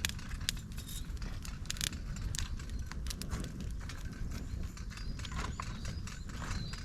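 Campfire of dry bamboo, twigs and leaves crackling in a fire stand, with irregular sharp pops over a steady low rumble.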